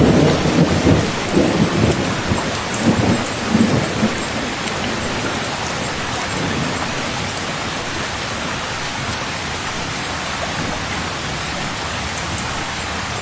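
Heavy, steady rain with thunder rumbling through the first four seconds or so, then rain alone.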